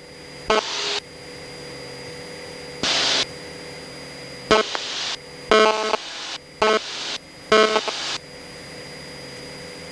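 Cessna 172's engine drone heard through the headset intercom, steady throughout, with about seven short buzzy bursts that cut in and out abruptly.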